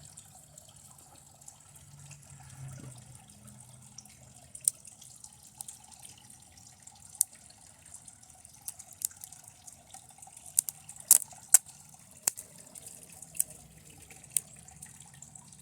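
Circuit board from a TV crackling and popping as high current from a lead-acid battery burns through it. About a dozen sharp pops come at irregular intervals, the loudest a few together about eleven seconds in, over a faint steady hum.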